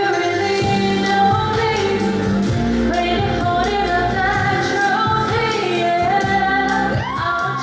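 Live pop music: a woman singing with band accompaniment and a steady beat.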